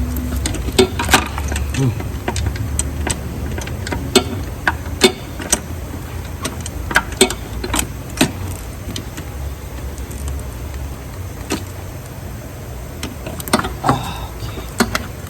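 Hand ratchet with a 10 mm swivel socket and extension loosening intake manifold bolts: scattered metallic clicks and clinks, irregular and several a second, over a steady low hum.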